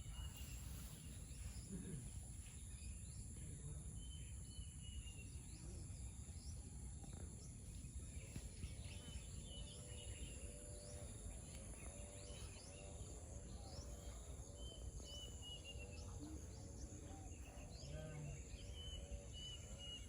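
Morning birdsong over a steady high insect drone: one bird repeats a short falling whistled phrase every few seconds. From about eight seconds in, a run of low repeated calls joins it, over a low background rumble.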